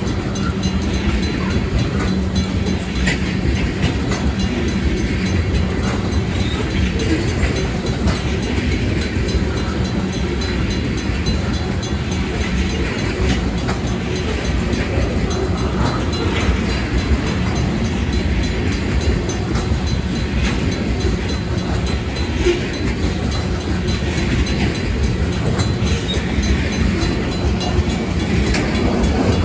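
Freight train tank cars rolling past at close range: a steady rumble of steel wheels on the rails, with occasional sharper clicks.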